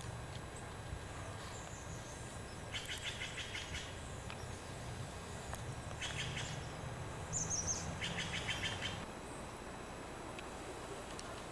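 A small songbird singing rapid trills, three short bursts of quickly repeated high notes, over a steady low rumble.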